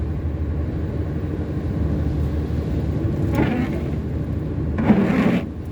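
Steady low rumble of a car driving at highway speed, with two brief hissing swishes about three and five seconds in.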